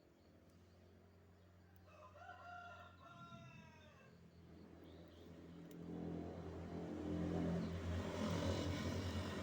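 A rooster crows once, about two seconds in, in one slightly falling call. Then a motor vehicle's engine grows louder, loudest near the end.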